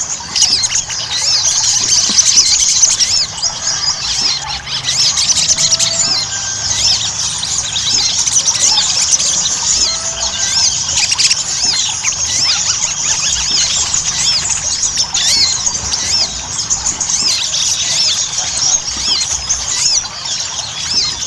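Ruby-cheeked sunbird (sogon) in full song: a fast, unbroken chatter of high, thin, looping notes.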